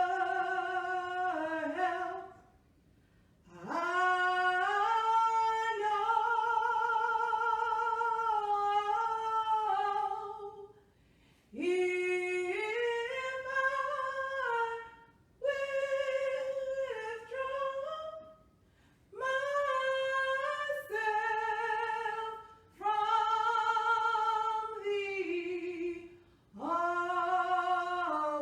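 A single voice singing a slow hymn unaccompanied, in long held, sliding phrases with short pauses for breath between them.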